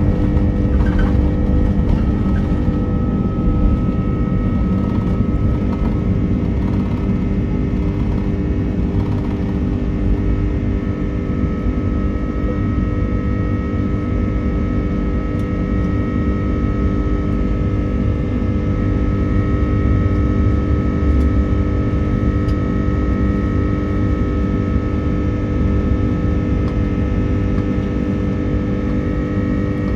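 Airbus A330-300's Rolls-Royce Trent 700 turbofan engines running steadily, heard inside the passenger cabin: a deep rumble with several steady whining tones over it.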